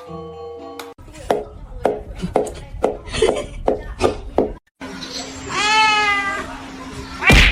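A cat's single drawn-out meow, rising then falling, about two-thirds of the way in. Before it comes a quick run of short pitched cries, and near the end a loud sharp knock.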